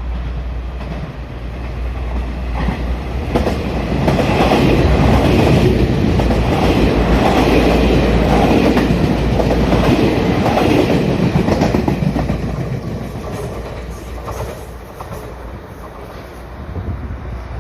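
Puyuma tilting electric express train (TEMU2000) passing through a station without stopping, its wheels clattering over the rail joints. It swells to its loudest about four seconds in, stays loud for about eight seconds, then fades away.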